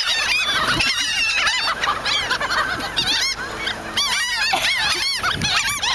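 A flock of gulls calling over one another: many short, arched cries overlapping without a break, thinning briefly about three to four seconds in.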